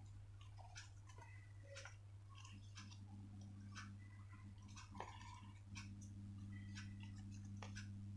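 Paper being handled and folded, with soft irregular crinkles and small crisp clicks from creasing, over a steady low electrical hum.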